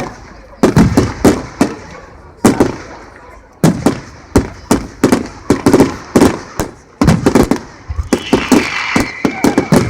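Fireworks display: aerial shells bursting with sharp bangs, singly and in rapid clusters, each with a short echoing tail. A high steady tone joins near the end.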